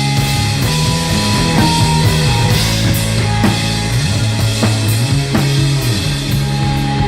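Rock band playing live, heavy psychedelic rock: drum kit hits over a shifting bass line, with a guitar holding a high note through much of it.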